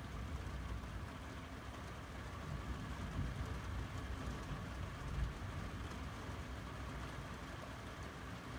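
Heavy rain falling steadily, over an uneven low rumble that swells briefly about halfway through.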